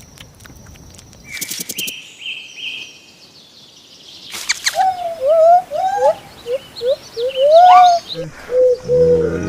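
Animal calls: a few faint high chirps early on, then from about halfway in a quick series of short rising cries, ending in a longer pitched call. A sharp click comes just before the series.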